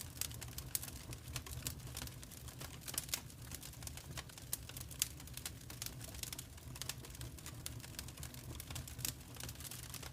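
Wood fire crackling in a fireplace: a constant, irregular run of sharp little pops and snaps over a low, steady rumble.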